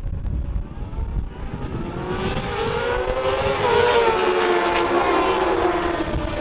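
Racing motorcycles approaching and passing, the engine note rising and growing louder to its loudest about four seconds in, then dropping in pitch as they pull away. Wind rumbles on the microphone at the start.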